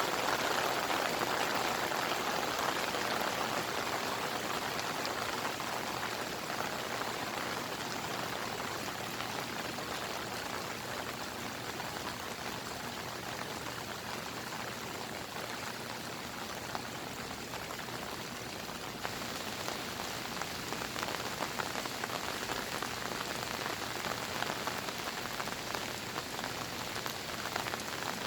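Steady monsoon rain falling, with separate drops striking a surface. It is a little louder at the start and eases slightly mid-way, and individual drop hits grow more distinct in the second half.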